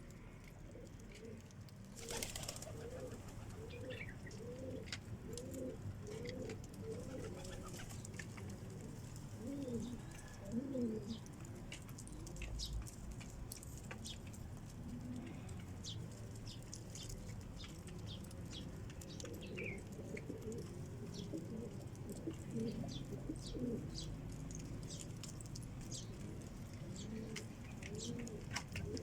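Homing pigeons cooing: runs of repeated rising-and-falling coos, about two a second, with a quieter stretch in the middle. Light ticks and scratches run underneath.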